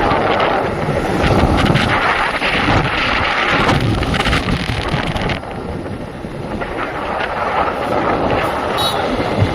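Wind buffeting the microphone during a motorbike ride, with vehicle and road noise beneath. It drops a little past halfway, then builds again.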